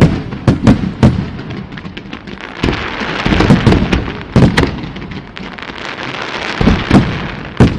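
Aerial fireworks bursting in a rapid string of loud booms, about a dozen in under eight seconds, with a crackling hiss through the middle of the string.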